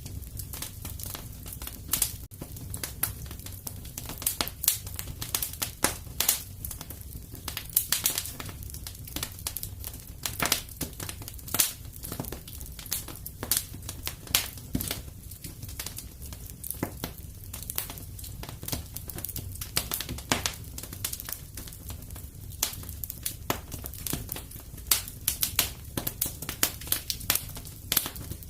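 Wood fire crackling in a fireplace: irregular sharp pops and snaps, several a second, some louder than others, over a low steady rumble of the burning fire.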